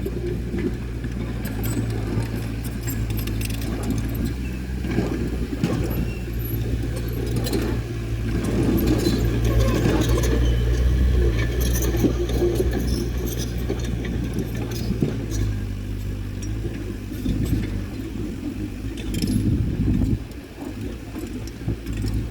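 Diesel bulldozer engine running steadily under load, with the clinking and rattling of its steel tracks; the sound eases off slightly near the end.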